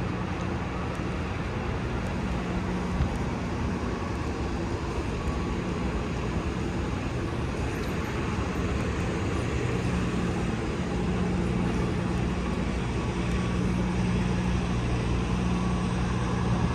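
City street traffic: a steady wash of passing vehicles with the low hum of engines running.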